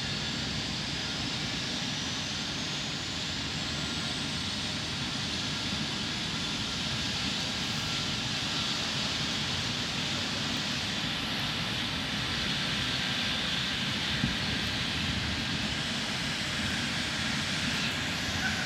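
Rescue helicopter's turbine engine and rotor running steadily, with a faint high whine that climbs in pitch over the first several seconds.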